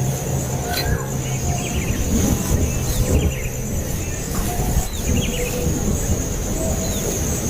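Baby birds giving short high chirps every second or two, over a steady high insect-like trill and low rumbling background noise.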